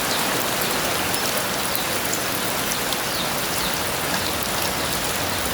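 Heavy rain falling steadily, a dense even hiss with scattered drops pattering on a surface.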